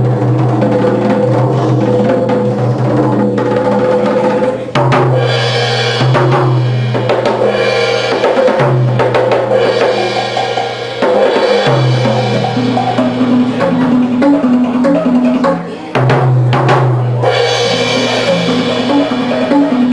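Live percussion music: drums and wood-block knocks played over held low bass notes that change every few seconds.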